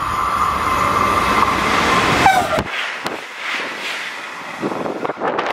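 A train passing at speed on the main line: a loud rumble with a steady high tone that falls in pitch and stops abruptly about two and a half seconds in as the train goes by. Quieter gusts follow.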